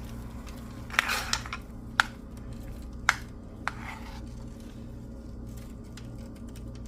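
A spoon scooping thick mashed potatoes from a bowl, clicking sharply against the bowl about four times with short soft scrapes in between, over a steady low hum.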